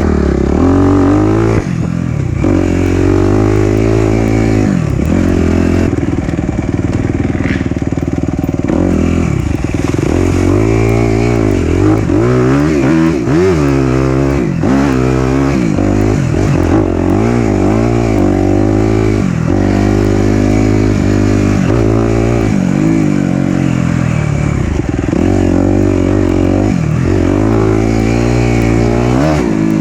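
Four-stroke dirt bike engine on the throttle along a trail, its pitch rising and falling every second or two as the rider opens and closes the throttle and shifts.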